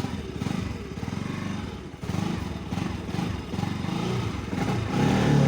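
Motorcycle engine running as the bike sets off, with a fast, even low pulse.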